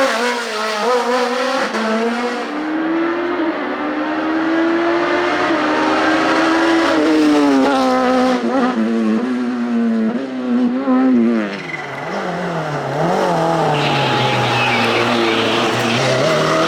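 Hillclimb race car engine at full load, its note climbing and then dropping sharply several times as it shifts through the gears, with some tyre squeal near the end.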